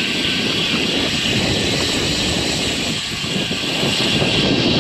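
Steady rushing of wind on the microphone and road noise while riding a bicycle into a strong headwind.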